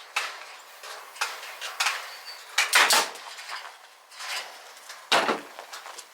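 Top-loading hand staple gun firing staples, a series of sharp snaps, the loudest about three and five seconds in.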